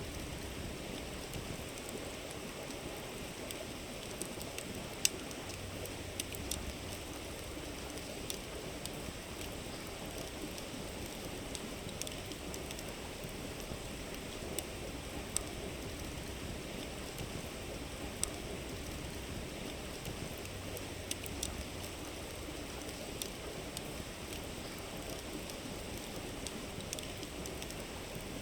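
Campfire crackling, with scattered sharp irregular pops, over the steady babble of a flowing river.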